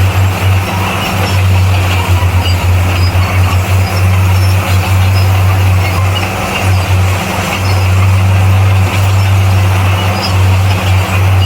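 Heavy earthmoving machine's diesel engine running: a steady low drone with dense mechanical noise over it. The drone stutters rapidly now and then, about 2 seconds in and again near the end.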